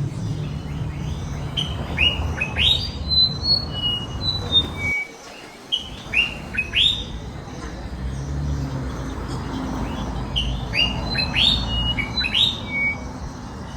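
Small birds chirping: clusters of short, falling chirps and a few brief high whistled notes, over a steady low rumble that drops out for about a second partway through.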